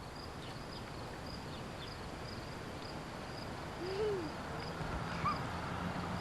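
Outdoor ambience: a steady background hiss with a faint high chirp repeating about twice a second, a single short low call that rises and falls about four seconds in, and a low steady hum that comes in near the end.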